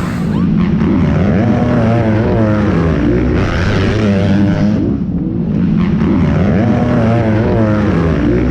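Several motocross bike engines revving together, their pitches rising and falling as the riders work the throttles.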